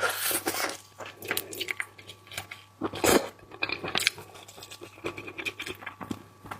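Close-up chewing and crunching of seafood, with scattered wet bites and clicks and one loud crunch about three seconds in.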